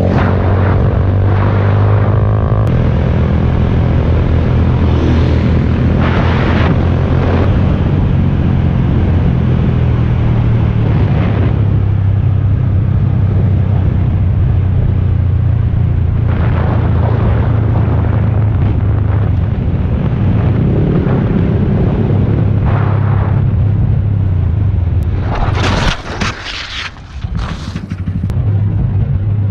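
Motorcycle engine running steadily under a continuous low rumble. The level dips briefly with a few sharp, short noises near the end.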